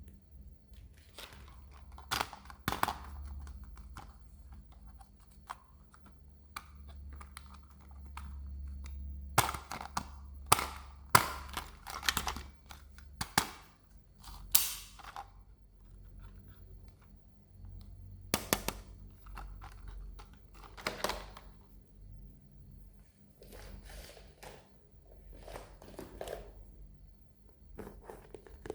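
Hands handling plastic toys and packaging: irregular sharp clicks and taps with short rustles, densest and loudest in the middle stretch, over a faint low hum.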